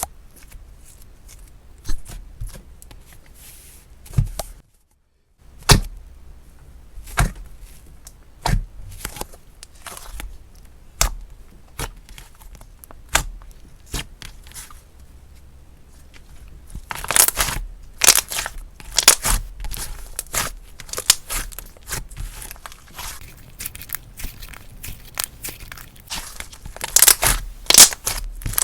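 Slime being squeezed, stretched and poked by hand, giving sharp clicks and pops, with denser bursts of crackling about two-thirds of the way in and again near the end.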